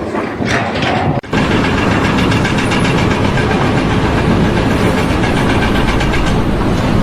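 A heavy engine running steadily and loudly with a faint regular rattle, after an abrupt change of clip about a second in.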